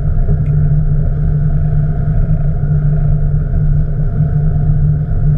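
A boat's engine running steadily, a constant low drone.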